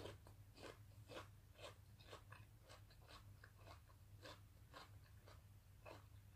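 Faint close-up chewing of crunchy food, a bite of raw radish, with soft crunches about twice a second.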